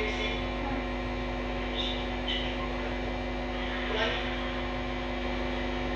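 Steady electrical mains hum, with a few brief faint voices about two and four seconds in.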